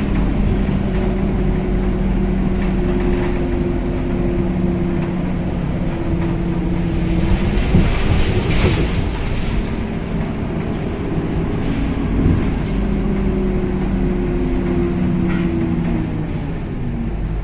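Interior of a Scania K270UB city bus under way: a steady engine and drivetrain hum with several low tones that shift in pitch as the bus changes speed. A brief rougher jolt of noise comes about halfway through.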